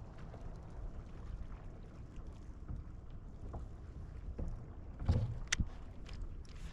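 Steady wind and water noise around a fishing kayak at sea, with a few sharp knocks about five seconds in.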